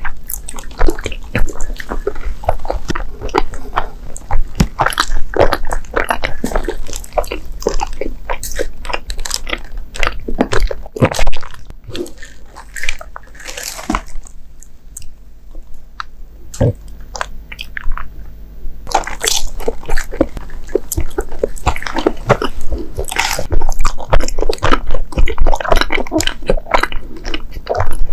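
Close-miked chewing of soft Japanese sweets: rapid wet mouth clicks and smacks, pausing for a few seconds in the middle before starting up again.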